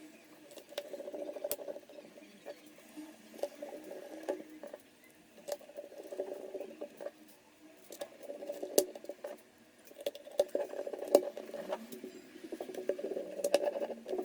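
Small screwdriver driving the screws of a laptop's bottom cover: faint, uneven scratchy turning noises with scattered light clicks.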